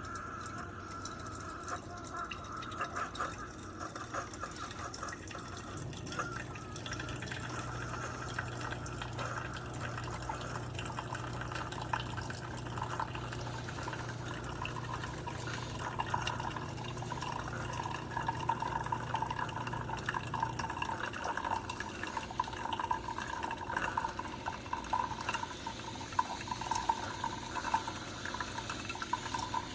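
Keurig single-serve pod coffee maker brewing: coffee streams and trickles into a cup. A steady low pump hum joins about six seconds in and stops about fifteen seconds later.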